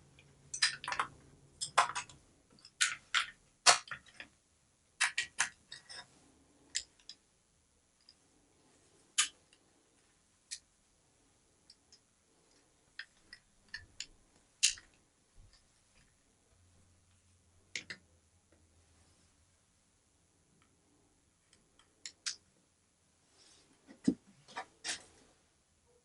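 Sharp plastic clicks and snaps of a 3D-printed USB charger housing clipping onto and off a Ryobi power-tool battery. They come thick in the first few seconds, then as scattered single clicks with quiet handling in between.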